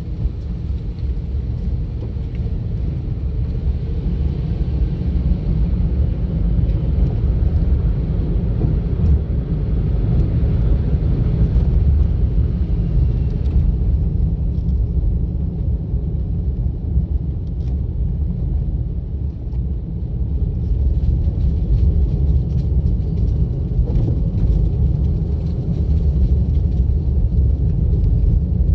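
Steady low rumble of a car on the move, road and engine noise picked up by an in-car camera. It eases a little in the middle and builds again after about twenty seconds.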